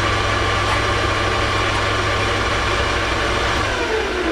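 Metal lathe running at steady speed with a motor whine while a reamer is run down the end of a bore to clear a burr. Near the end the whine falls in pitch as the spindle winds down.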